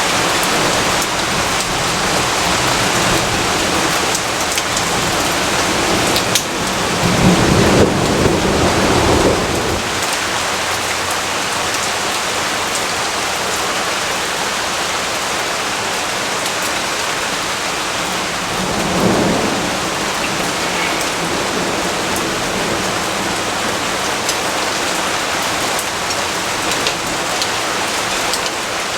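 Steady rain falling, with a rumble of thunder rolling in about six seconds in and lasting around three seconds, then a fainter, shorter rumble about two-thirds of the way through.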